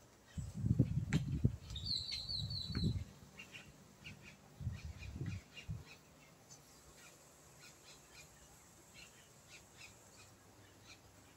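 Birds calling: a quick run of about six high chirps about two seconds in, then scattered faint short chirps. Heavy low rumbling noise over the first three seconds and again around five seconds.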